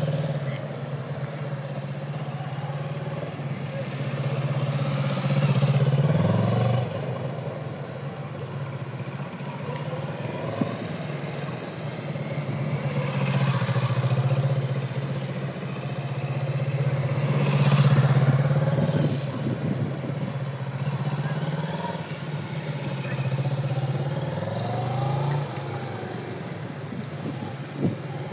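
Kawasaki Z650's parallel-twin engine pulling at low speed through tight turns, its pitch rising and falling several times as the throttle is opened and closed.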